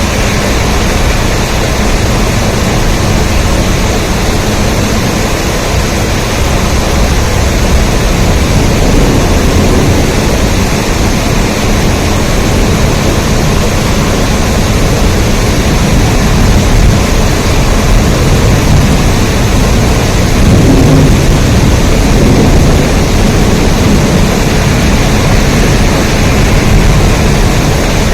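Steady heavy rain, an even dense hiss with a deep low rumble beneath it that swells about a third of the way in and again about two-thirds of the way through.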